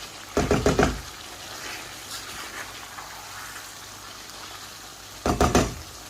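A spoon knocking against the karahi pan in two quick bursts of rattling knocks, each about half a second long, one near the start and one near the end, as the curry is stirred. In between, a faint simmering hiss from the sauce.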